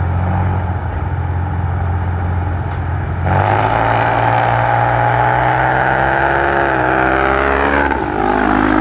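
Drag-racing diesel trucks launching: a steady low engine note, then about three seconds in the engines go to full throttle and climb in pitch down the strip, dipping and climbing again near the end as they shift.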